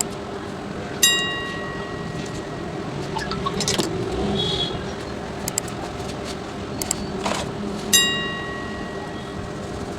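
Two sharp metallic clinks, about seven seconds apart, each ringing out for about a second like a small metal object struck, with a few light clicks between them over a steady low hum.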